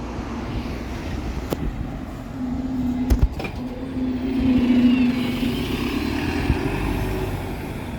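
Diesel bus engine running as the bus moves off, the engine note strongest through the middle with a faint rising whine as it pulls away, and a few short knocks.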